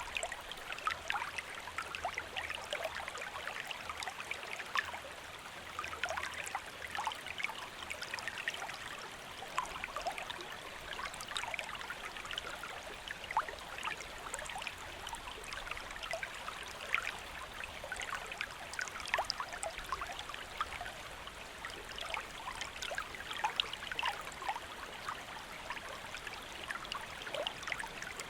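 A stream flowing steadily: an even wash of running water with many small splashes and trickles.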